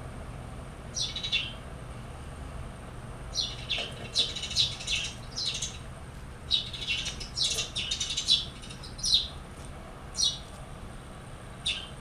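A small bird chirping: short, high chirps that sweep downward, some coming in quick runs in the middle, over a steady low hum.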